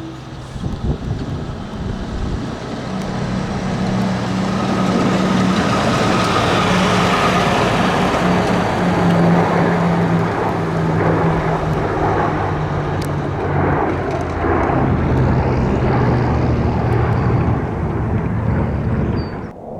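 An aircraft's engines running loud as it passes, with a steady low hum in the noise; the sound builds over the first few seconds, holds, then cuts off suddenly near the end.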